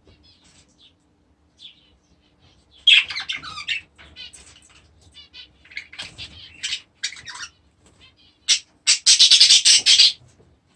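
Small aviary birds chirping and squawking in scattered short calls, with a busy flurry about three seconds in and a loud, harsh burst of chatter lasting about a second near the end.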